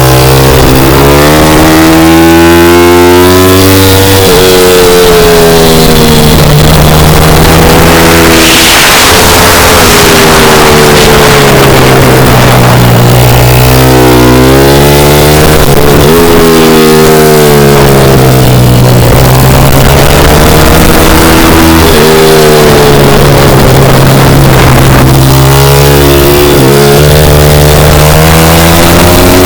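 A pit bike's small single-cylinder engine, loud, revving up and dropping back again and again as the bike accelerates and slows around the track.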